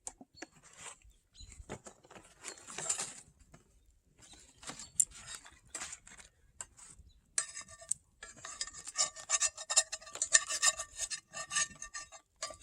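A metal utensil scraping food stuck to a cast iron pan. It starts as a few scattered strokes, then from about halfway through becomes quick, continuous scraping with a metallic ring. The food is sticking because the pan's seasoning is worn and it wasn't buttered.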